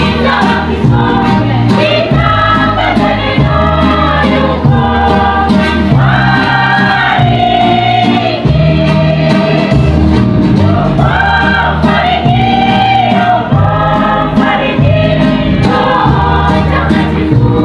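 Church choir singing a gospel song over steady instrumental backing with a strong bass line.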